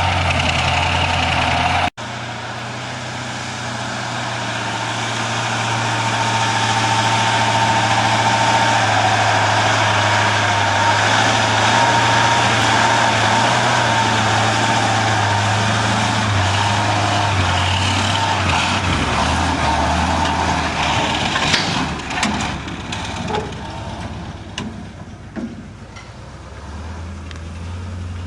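KrAZ-255B 6x6 truck's V8 diesel engine running, a steady low hum that grows louder over several seconds and holds. It then fades, with a few knocks and clatters, before a steady engine hum comes back near the end.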